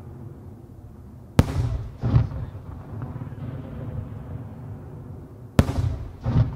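Fireworks going off: two sharp bangs about four seconds apart, each followed less than a second later by a duller boom, over a steady low rumble.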